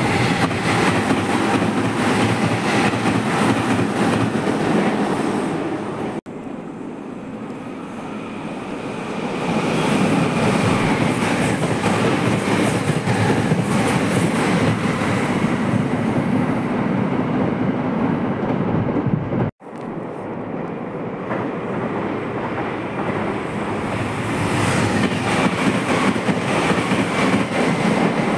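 Meitetsu electric trains passing through a station at speed, a loud steady rumble of wheels on rail. Three separate passes, joined by abrupt cuts about six seconds in and again near twenty seconds.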